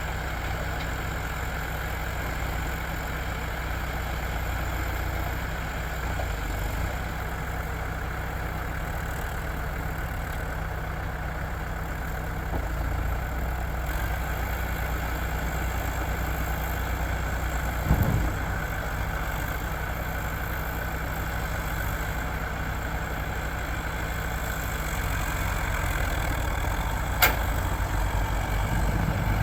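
Heavy vehicle engine running steadily at a low idle-like pace, with a short thump about two-thirds of the way through and a sharp click near the end.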